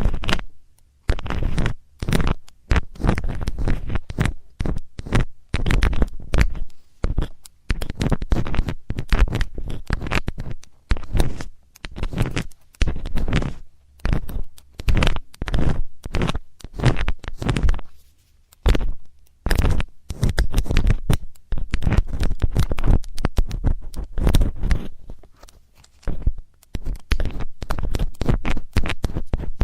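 Metal ear-cleaning tool scratching and scraping against a binaural microphone's ear in quick, irregular runs of clicks and rasps, with deep rubbing thuds. The runs break off briefly a few times.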